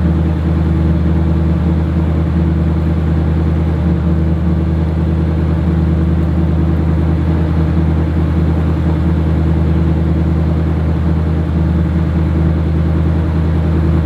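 Chevy 350 small-block V8 of a 1973 Camaro idling steadily at an even speed, with no revving.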